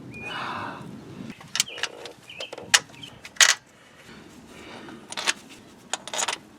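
Sharp metallic clinks and knocks of tools and parts striking metal as a replacement power transfer unit is worked into place under a car. About half a dozen come irregularly, the loudest about halfway through, after a short rasping noise in the first second.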